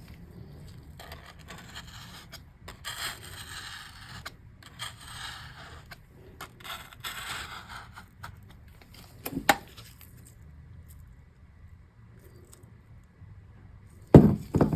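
Razor blade scraping sticker glue residue, softened with WD-40, off a MacBook's surface in a series of short rough strokes, then a sharp click. Near the end comes a louder double knock.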